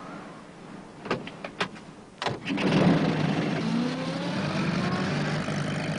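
A few sharp clicks and a thump, then a small van's engine starts a little after two seconds in and runs, its pitch rising as it pulls away.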